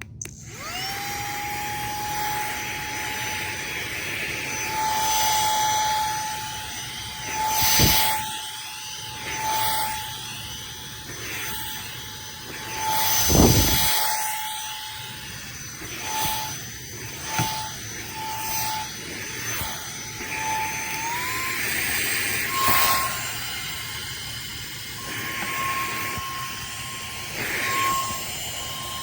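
AX2V cordless handheld vacuum/blower's brushless motor spinning up to a steady high whine, with air rushing through it. About two-thirds of the way through, the whine steps up in pitch as it switches to the higher of its two speeds. Twice, about a quarter and about halfway through, there is a loud rush of air.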